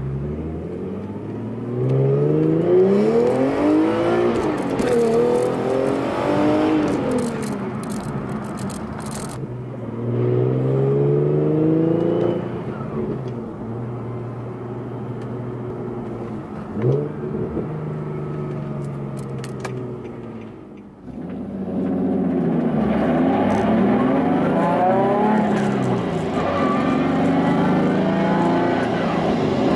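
Nissan VQ-series V6 with an aftermarket exhaust being driven, the engine note climbing as it accelerates and dropping back at each gear change. Partway through it holds a steady note with one quick rev blip, dips, then pulls hard again through several climbing shifts.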